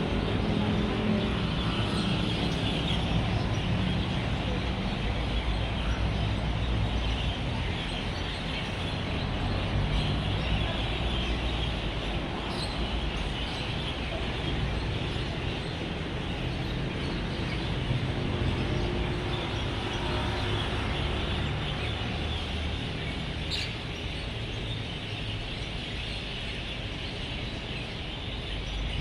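A large flock of birds chattering and chirping continuously at an evening roost, over a steady rumble of road traffic with vehicles passing.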